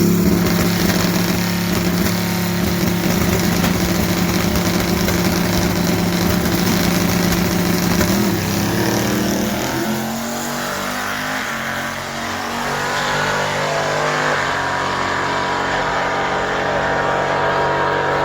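Drag-racing car's engine held at a steady high rev for about eight seconds, then climbing in pitch and fading as the car pulls away.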